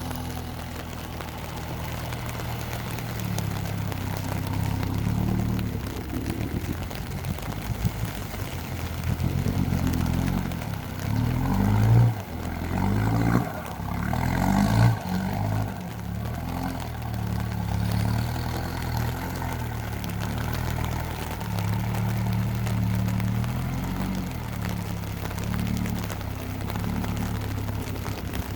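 Mahindra Roxor's 2.5-litre turbodiesel engine running through an aftermarket exhaust. It holds a steady note most of the time, with several revs that rise and fall between about nine and fifteen seconds in.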